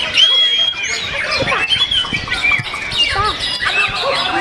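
Young white-rumped shamas (murai batu) singing, several at once: a dense, loud tangle of overlapping whistles and quick chirps.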